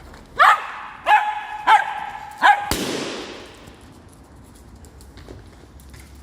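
A dog barks four times in quick succession, then a balloon bursts with a sharp pop and a fading hiss.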